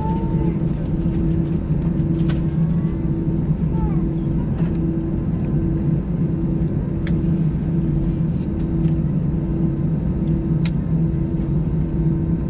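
Steady drone of an Airbus A320's jet engines heard from inside the passenger cabin. Its hum pulses evenly, about once every three-quarters of a second, with faint scattered clicks and rattles from the cabin.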